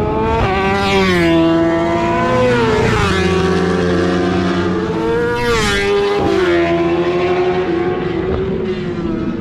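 Superbikes at racing speed, their high-revving engine notes falling in pitch as they pass, once about a second in and again just past halfway, with more engines running underneath.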